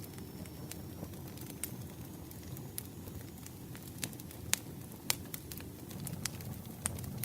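Campfire burning: a steady low rumble of flames with sharp, irregular crackles and pops of burning wood, two louder pops about four and a half and five seconds in.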